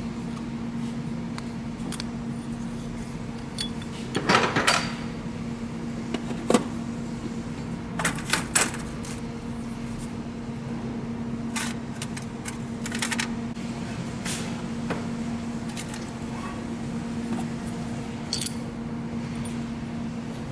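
Light metal clicks and clinks of a Caterpillar injector support-ring and seal-ring installation tool being handled and pressed onto the injector. They come in several short clusters, loudest about a quarter of the way in, over a steady low hum.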